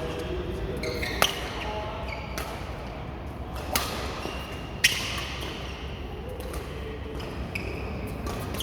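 Badminton rackets striking a shuttlecock: three sharp smacks, about a second in, near the middle and a second after that.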